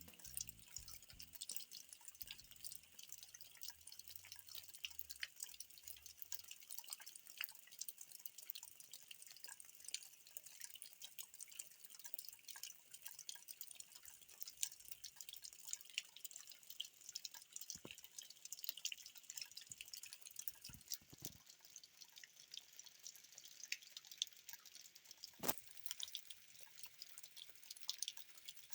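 Rain falling, heard as a faint, dense patter of small drips and raindrop ticks, with one sharper drop or tap about 25 seconds in.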